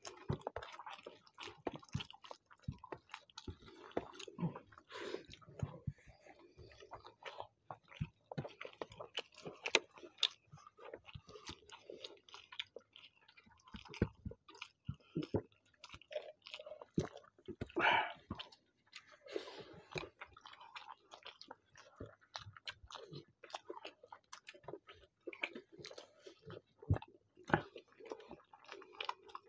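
Two people chewing mouthfuls of rice and chicken curry eaten by hand, a close, continuous stream of wet chewing with many irregular short mouth clicks.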